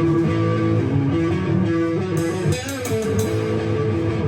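Electric guitar playing a blues-rock riff in A that rolls between the minor and major third and on to the fifth and sixth, with a few sharper strums a little past the middle.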